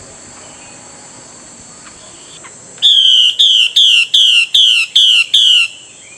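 Female Chinese hwamei calling to a male: seven loud notes in quick succession, each sliding downward, about two and a half per second, beginning about three seconds in. A faint steady high-pitched hum runs underneath.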